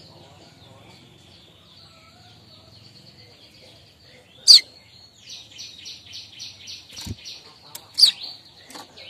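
Streaked weaver (manyar kembang) singing its chattering kemrecek song. A faint high trill comes first. About halfway through there is a loud, sharp downward-sweeping note, followed by a rapid run of buzzy chattering notes and another sharp downslurred note near the end.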